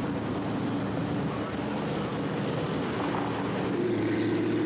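Dodge Challenger 392 Scat Pack's 6.4-litre HEMI V8 running at a steady cruise with road noise, a continuous drone whose engine note grows a little louder and steadier about four seconds in.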